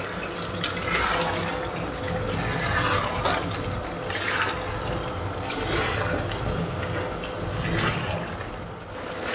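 Chicken pieces sizzling in oil and spice paste in a frying pan while being stirred and turned with a wooden spoon, the bhuna stage of frying the meat in its masala. The steady sizzle rises in short surges every second or two as the pieces are moved.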